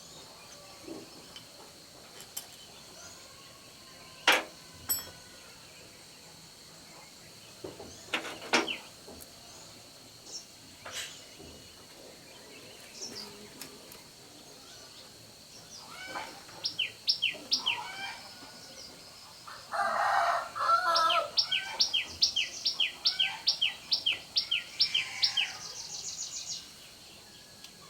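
Birds calling: a rapid series of short, high chirps through the second half, with a louder, lower call about twenty seconds in. A few sharp clicks or knocks come earlier.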